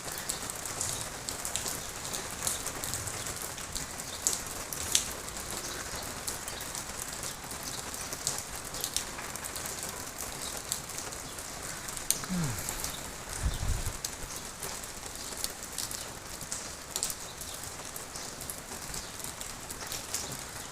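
Steady high crackling hiss dotted with sharp ticks, like rain pattering on a surface, with a brief low falling sound and a dull thump about thirteen seconds in.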